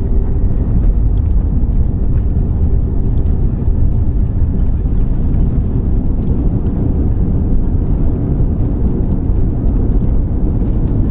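Airbus A340 landing rollout heard from inside the passenger cabin just after touchdown: a loud, steady rumble of the engines and the wheels on the runway, with a few faint ticks of rattling cabin fittings.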